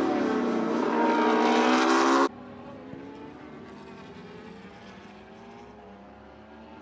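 Motorcycle engine accelerating hard, its pitch rising, until it cuts off abruptly a little over two seconds in. A much fainter engine drone carries on after it.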